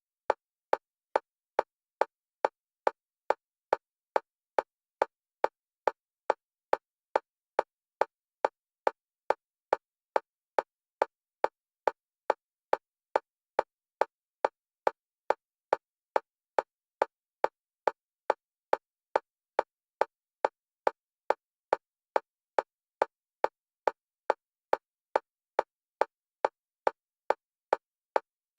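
Fast electronic metronome clicks of a single pitch, evenly spaced at about two to three a second, alternating between the left and right stereo channels for EMDR bilateral stimulation.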